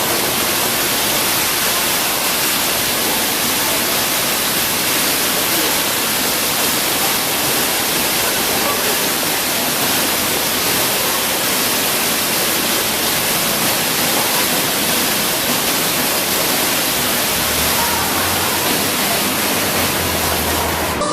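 Steady rush of a curtain of water pouring from an overhead frame and splashing onto the ground, loud and even throughout.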